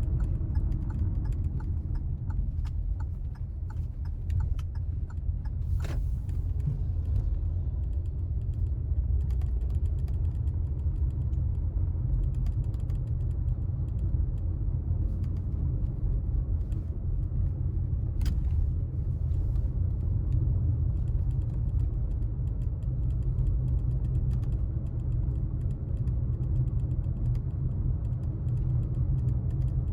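Car being driven on town streets: a steady low rumble of engine and road noise, with scattered light clicks and rattles. Two brief sharper noises come about six and eighteen seconds in.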